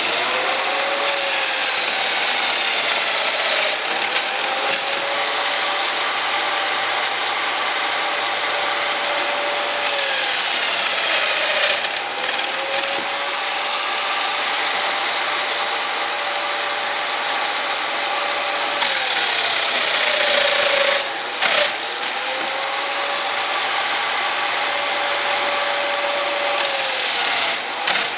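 A high-speed electric power tool motor running with a steady whine, its pitch sagging under load and recovering several times, as with passes cutting through hardwood.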